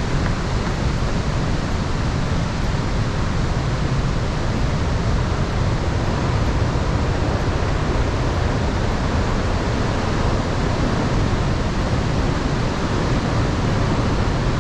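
Steady, loud rushing of the Iguazu Falls' cascading water, an even noise weighted toward the low end that does not change.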